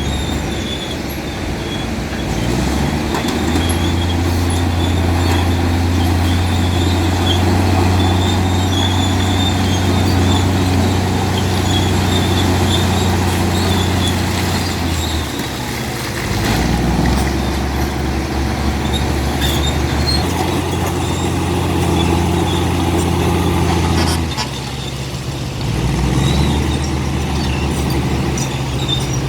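Komatsu D65P bulldozer's diesel engine running under working load, its note rising and falling as the load changes a few times.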